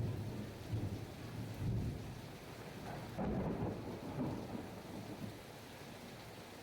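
Heavy rain pouring steadily, with low rolling thunder rumbling in swells and dying away after about five seconds, leaving the rain alone.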